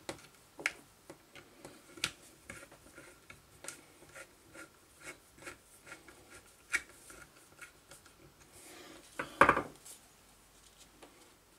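Light clicks, taps and rubbing as small motor parts are handled, with a louder scrape about nine seconds in.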